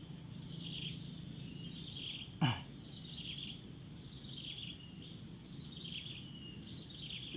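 Outdoor ambience with a bird repeating a short high call about once a second over a low steady rumble. About two and a half seconds in there is one quick sweep that falls from high to low, the loudest sound here.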